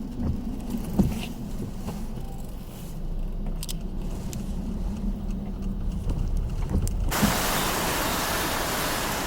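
A low rumble with scattered clicks and knocks, then, about seven seconds in, a sudden switch to a steady rushing hiss of hurricane rain and wind.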